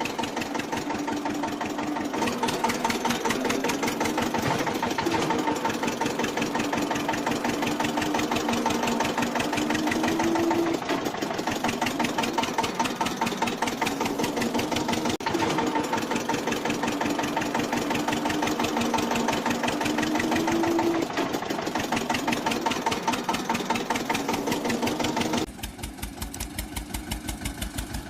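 Eicher 242 tractor's diesel engine running with a steady, rapid chugging. Near the end the sound drops suddenly to a quieter, lower-pitched engine run.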